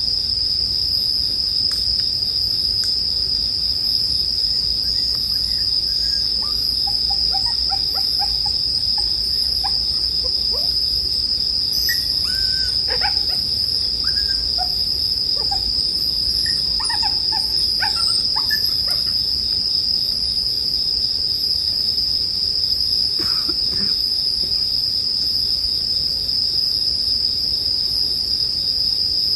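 Bell crickets (suzumushi) singing in a steady, unbroken high-pitched chorus, with scattered short, fainter chirps lower in pitch through the middle.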